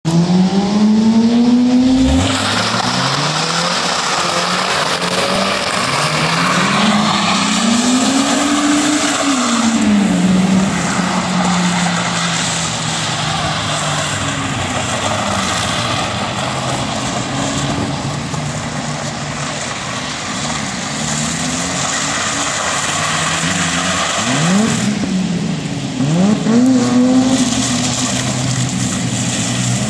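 Saturn Sky's four-cylinder engine revving up and falling back again and again as the car drifts on wet pavement, with quick revs near the end, over a steady hiss of wet tyres and spray.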